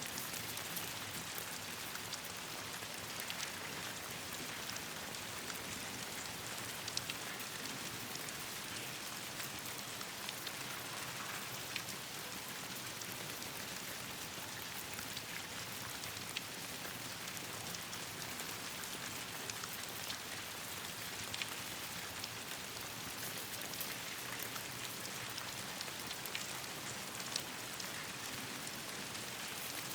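Steady rain falling on leaves and branches, an even hiss with scattered sharp ticks of drops or crackles.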